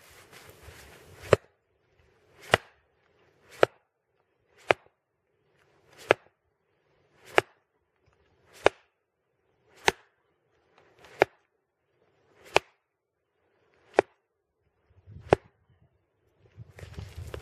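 A log being split for kindling: a dozen sharp chopping blows, evenly spaced about one every second and a quarter.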